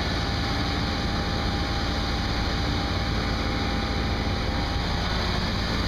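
Car engine idling steadily, a continuous low drone.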